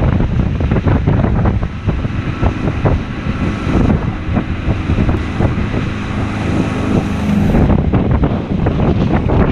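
Wind buffeting the microphone on a moving motorboat, over the boat's engine running and waves knocking and splashing against the hull in rough water.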